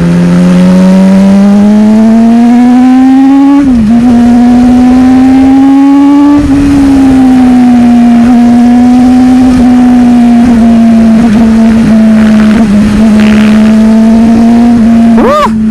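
Sport motorcycle engine under way, loud, its pitch climbing steadily under throttle with a quick drop about 4 seconds in as it shifts up, easing off a couple of seconds later and then held at a fairly steady pitch with small throttle changes. Near the end the pitch dips and rises again quickly.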